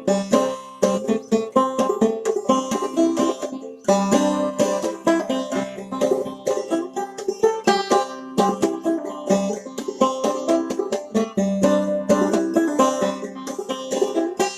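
Clawhammer banjo playing an old-time tune solo: a steady, rhythmic stream of quick plucked notes and brushed strums.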